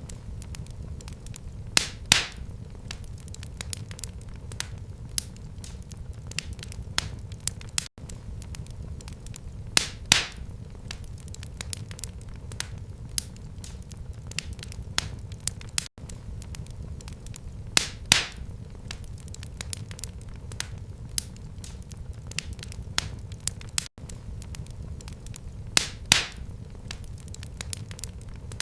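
Wood fire crackling in a fireplace: a steady low rumble of flames with scattered sharp crackles and a louder pop about every eight seconds. The same short stretch of fire sound repeats as a loop.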